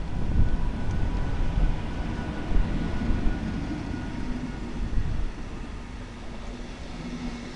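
MÁV class V43 electric locomotive (431 008) passing close by, followed by its passenger coaches rolling past on the rails: a steady low rumble of wheels on track with a thin, steady whine over it.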